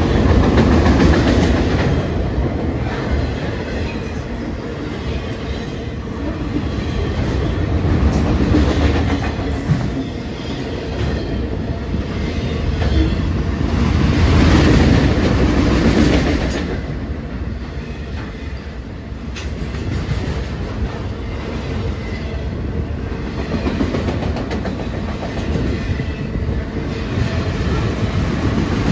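Freight train of enclosed autorack cars rolling past: a steady rumble of steel wheels on rail with a rhythmic clickety-clack. It swells and eases several times as the cars go by.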